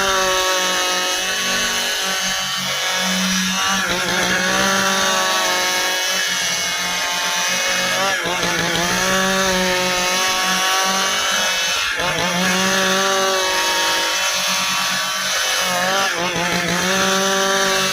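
Two-stroke Stihl chainsaw running at high revs while cutting dry ipê hardwood, its engine pitch sagging and recovering about every four seconds as the chain bites into the dense, dry wood and the saw labours.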